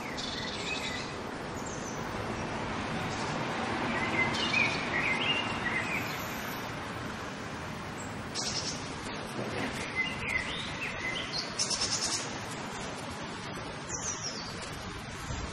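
Small birds chirping in short, repeated high calls over a steady hiss of outdoor background noise.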